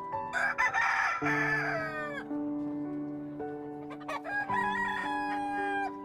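Two long pitched calls from a bird, each ending with a drop in pitch, the first about two seconds long and the second starting about four and a half seconds in, over soft background music.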